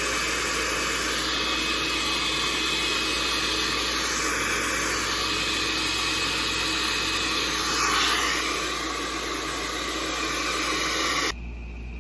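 Hair blow dryer running steadily on a loud, even rush of air, switched on suddenly and cutting off about eleven seconds in.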